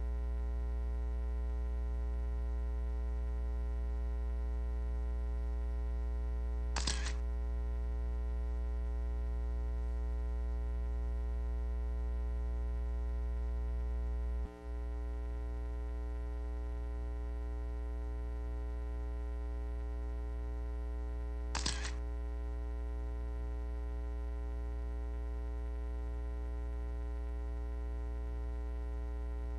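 Steady electrical mains hum with many even overtones, from the announcer's microphone and sound-system feed. It is broken by two short sharp clicks about 15 seconds apart.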